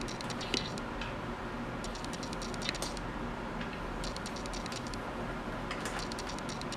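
Rapid clicking in four short runs, about a second or two apart, from hand-tool work in the engine bay.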